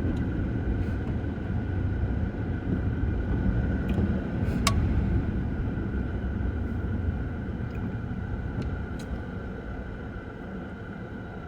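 Car running on a wet road, heard from inside: a steady low rumble of road and engine noise, with a sharp click about five seconds in, slowly getting quieter toward the end.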